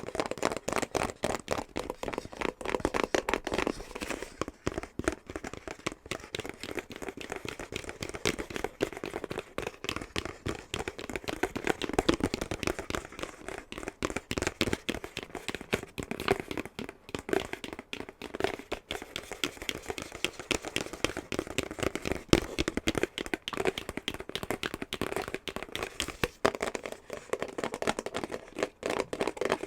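Fingernails tapping and scratching fast on a box, a dense, unbroken patter of quick clicks with a hollow ring.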